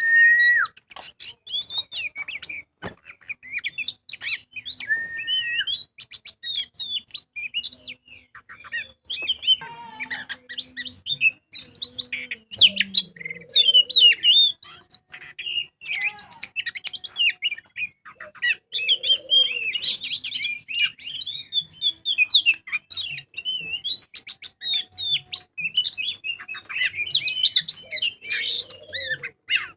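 Oriental magpie-robin (kacer) in full song: a loud, varied, unbroken stream of quick chirps, whistles and trills, with a few held whistles mixed in. The bird is singing hard ('gacor'), the song of a male in top form and in display.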